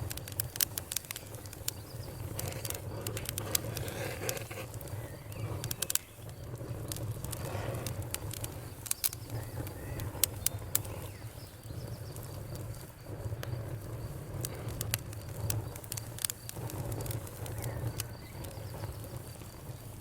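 Wood fire in a fireplace crackling: irregular sharp pops and snaps, some louder than others, over a steady low rumble of the burning fire.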